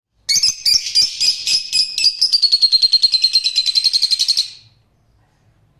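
Small cage bird singing: a few separate chirping notes, then a fast trill of about ten notes a second that falls slightly in pitch and stops about four and a half seconds in.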